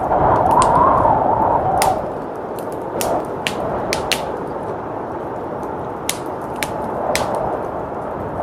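Wood fire crackling with irregular sharp snaps and pops, over steady blizzard wind that swells in a gust for the first two seconds.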